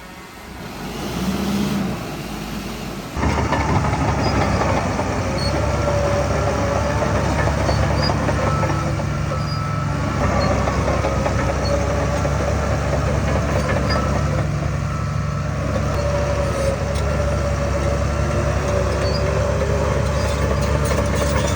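Heavy diesel earthmoving machinery running loud and steady, with a faint wavering squeal over the engine. The sound jumps up suddenly about three seconds in.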